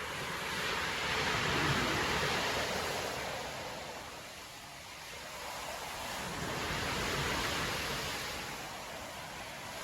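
Storm surf washing onto a beach: a continuous rush of breaking waves that swells twice, about two seconds in and again about seven seconds in.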